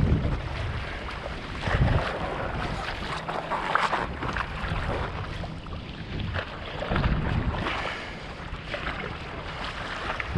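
Strong wind buffeting the microphone in gusts over choppy sea, with water splashing and sloshing.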